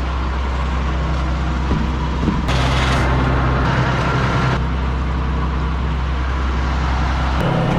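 An engine running steadily, with a hiss laid over it for about two seconds in the middle; the engine note shifts just before the end.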